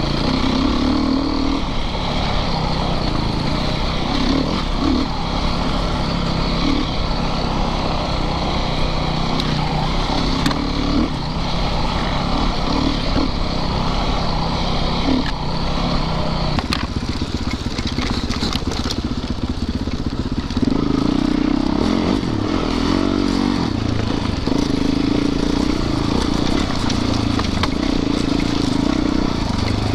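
Yamaha YZ450FX dirt bike's single-cylinder four-stroke engine running at low trail speed, its note rising and falling with throttle and growing louder about two-thirds of the way in.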